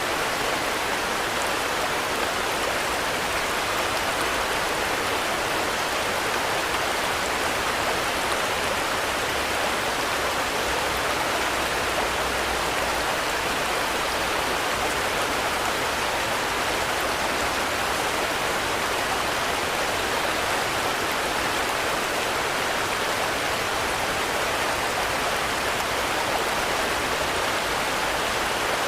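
Steady, continuous rainfall: an even, unbroken hiss of rain with no change in strength.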